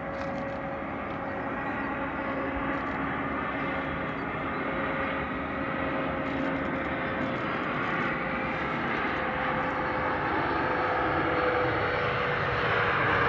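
Bombardier Challenger twin-turbofan business jet running, its jet noise slowly growing louder, with a steady whine that drifts slightly lower in pitch.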